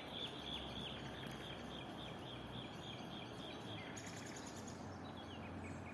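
Songbirds singing: a run of short, repeated whistled notes at about four a second, then a higher, quicker trill from about four seconds in, over a steady background hiss.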